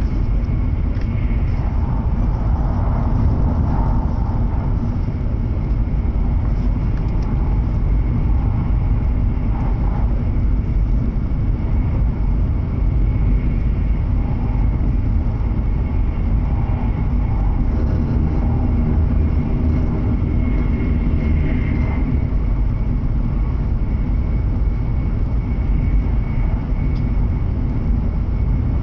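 Steady running noise inside the passenger cabin of a W7 series Hokuriku Shinkansen train: a deep, even rumble from wheels and track, with a faint steady high tone above it.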